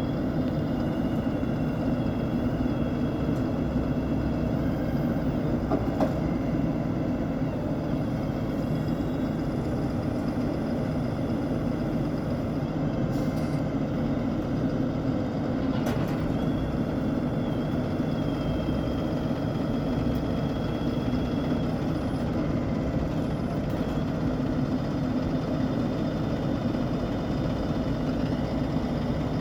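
Engine of a 2015 Ford F750 rollback truck running steadily with no revving, with a couple of faint clicks.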